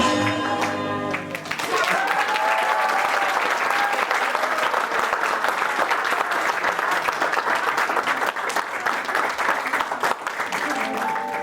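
Recorded dance music ends about a second in, and a theatre audience applauds steadily. New music with bell-like tones starts near the end.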